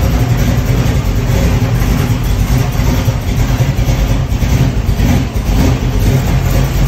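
1979 Camaro Z28's V8 engine idling steadily with the hood open.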